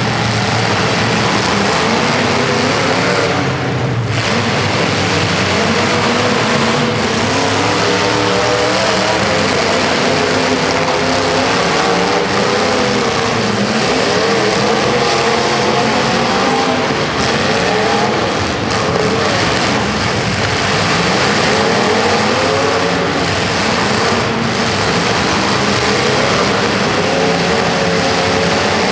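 Several car engines running hard at once, their notes rising and falling as they rev, over a steady loud din.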